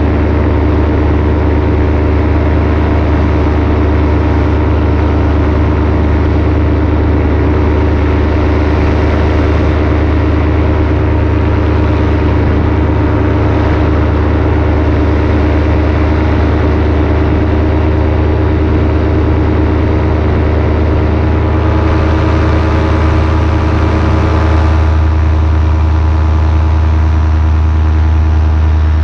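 Paramotor engine and propeller running steadily in flight, with a slight change in tone near the end.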